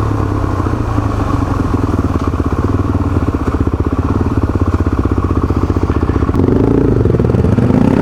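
Motorcycle engine running while riding on a dirt track. About six seconds in, the engine note rises and gets louder.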